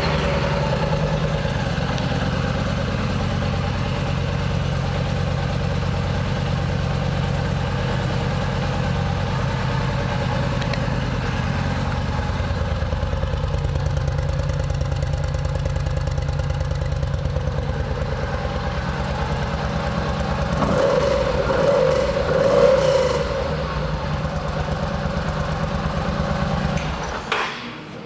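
2009 Yamaha V Star 950 Tour's air-cooled V-twin idling steadily. It is revved lightly twice about three quarters of the way through, then switched off just before the end.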